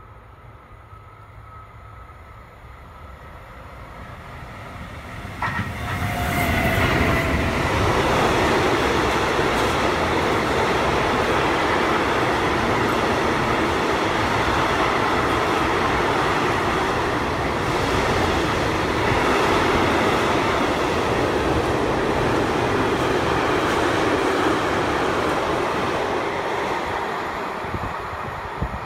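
Freight train of tank wagons passing close by. It approaches with a rising rumble, the locomotive draws level about five or six seconds in, and then the wagons' wheels run past on the rails with a loud, steady rumble that eases off near the end.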